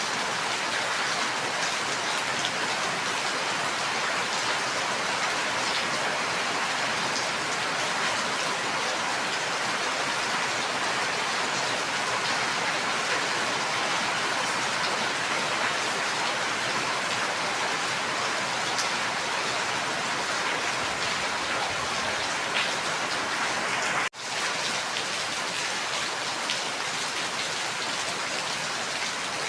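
Steady, dense rainfall with an even hiss of many drops. About three-quarters of the way through it cuts out for an instant and comes straight back.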